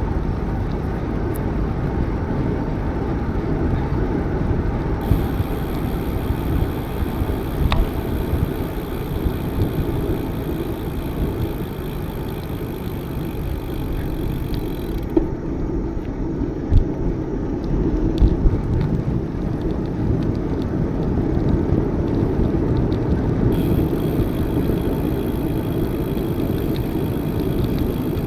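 Wind rumble on the microphone and tyres rolling during a bicycle ride, with a few light knocks from bumps. A faint high hiss comes in about five seconds in, drops out around fifteen seconds and returns near the end.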